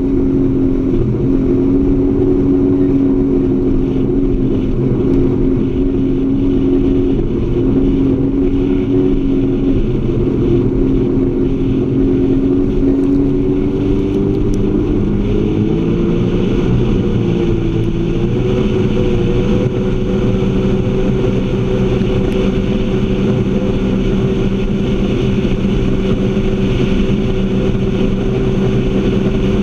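Jet ski engine running steadily at speed, with water hiss under it. Its pitch wavers and settles slightly higher about halfway through.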